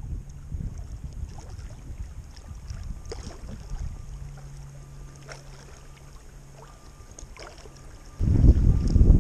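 Wind buffeting the microphone over open water, with faint scattered ticks and a low steady hum in the middle. A strong gust hits the microphone suddenly near the end and the rumble becomes much louder.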